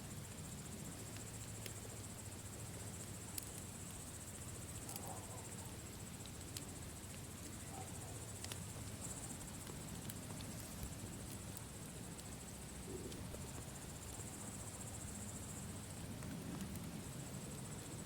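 Campfire crackling, with scattered sharp pops over a soft low rush of flame, and crickets chirring steadily in the background.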